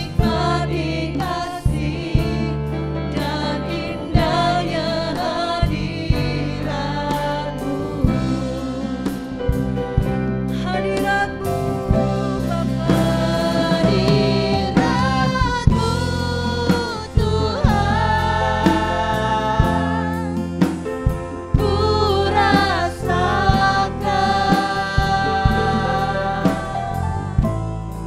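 Live worship band with drums and bass accompanying singers in an Indonesian praise song, the voices in several parts.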